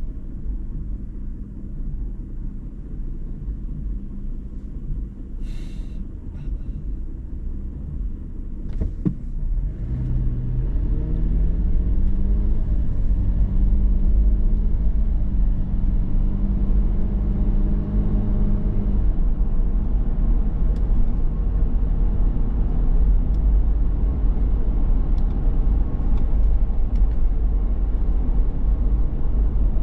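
2019 Toyota 4Runner TRD Pro's V6 engine and road noise while driving, a steady low rumble. About a third of the way in, the engine note climbs and grows louder as the truck accelerates, then holds steady for several seconds before easing.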